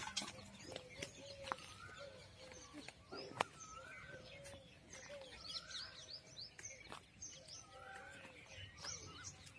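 Birds chirping and calling, many short quick chirps one after another, with a couple of sharp clicks, the loudest about three and a half seconds in.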